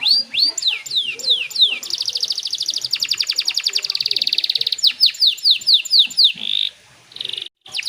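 Domestic canary singing: fast rolling trills alternating with runs of quick downslurred whistles, about three a second, with a brief silence near the end.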